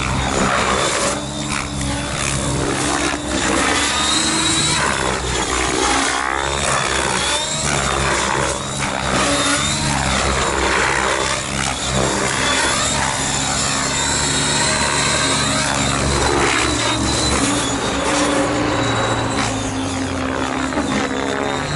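T-Rex 700 radio-controlled helicopter flying: a steady drone of rotor and drivetrain with a high whine, its tone sweeping back and forth as the helicopter manoeuvres.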